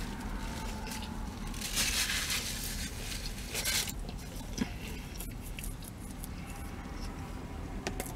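A person chewing a mouthful of food, with soft mouth noises and two louder hissing bursts about two and three and a half seconds in, over a steady low hum.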